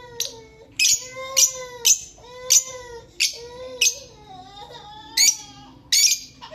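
Blue Fischer's lovebird calling: a string of sharp, shrill chirps, roughly two a second, over a lower, wavering pitched call.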